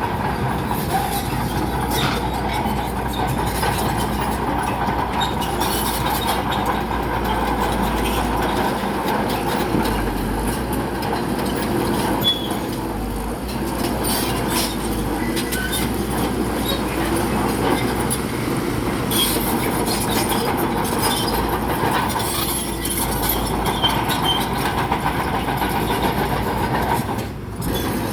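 Crawler bulldozer working: its diesel engine running steadily under a dense clatter of frequent metallic clanks from the steel tracks.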